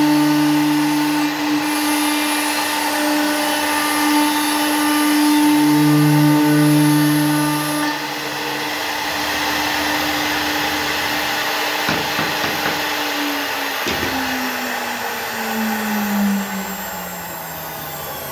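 CNC router spindle running with a steady high whine, then spinning down near the end, its pitch falling steadily over the last few seconds.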